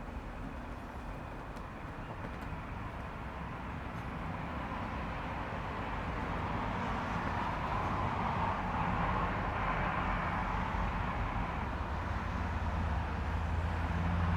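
A steady low rumble and hiss that grows gradually louder, with a low hum coming up near the end.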